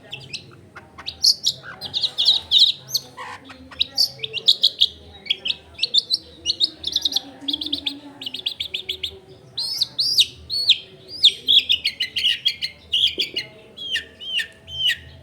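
Long-tailed shrike (cendet) singing without a break, a fast, varied run of high chirps, trills and quick rising-and-falling notes.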